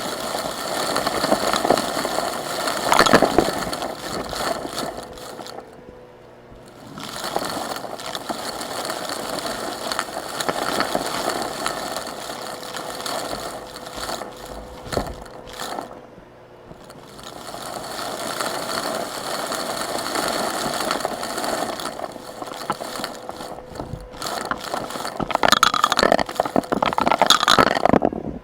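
Vacuum cleaner running and sucking up small rocks, which rattle and scrape through the nozzle and hose, with a steady motor whine underneath. The rattling eases in three brief lulls and is loudest near the end.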